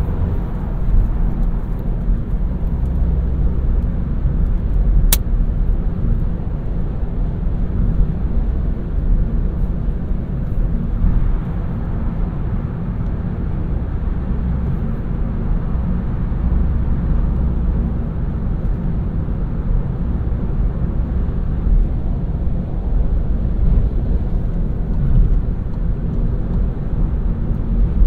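Seat Arona's 1.0 TSI turbocharged three-cylinder petrol engine and tyre/road noise heard from inside the moving car, a steady low rumble. A single sharp click about five seconds in.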